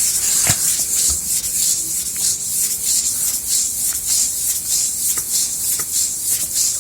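Steel meat-grinder plate being polished against abrasive: a steady, high rubbing hiss broken by many small scraping strokes.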